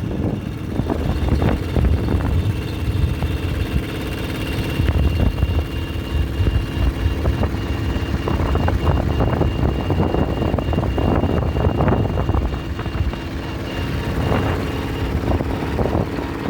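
Bulldozer's diesel engine running with a steady low rumble and a thin high whine, with irregular small knocks throughout.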